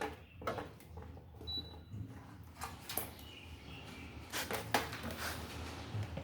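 Light clicks and knocks of parts being handled on an electric fan under repair, with a few scraping strokes about four and a half to five seconds in, over a faint steady low hum.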